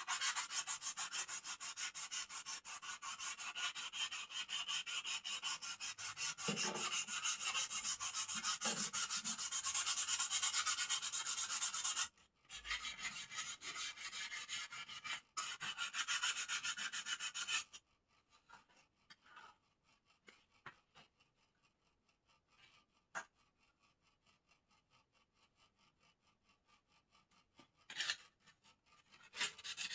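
Hand-sanding bird-cage parts with sandpaper: quick back-and-forth scraping strokes in a steady rhythm. The strokes pause briefly about twelve seconds in and stop about eighteen seconds in, leaving only a few faint scrapes and a click.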